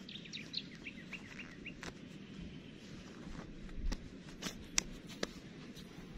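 A small bird gives a quick run of short, high chirps in the first two seconds over steady low background noise. A few sharp clicks and a low thump follow about four seconds in.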